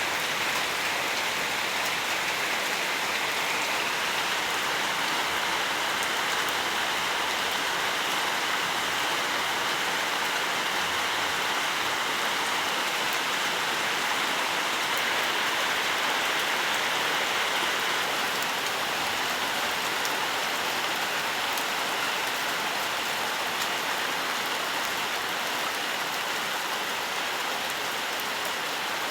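Steady rainfall: an even hiss of rain on surfaces with fine drops pattering throughout.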